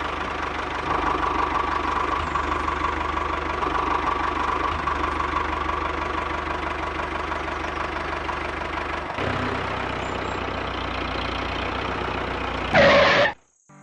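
Small motor of a DIY model mini tractor running steadily with a rattling hum, shifting slightly about a second in and again about nine seconds in. It flares loudly near the end, then cuts off abruptly.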